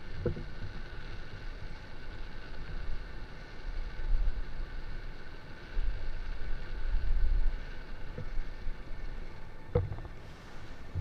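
Wind rumbling over the microphone, in gusts that swell about 4 seconds in and again from about 6 to 7.5 seconds, with a few short knocks.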